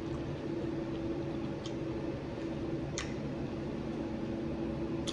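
Soft mouth-chewing of sautéed asparagus, with a few faint crisp clicks, over a steady low hum in the room.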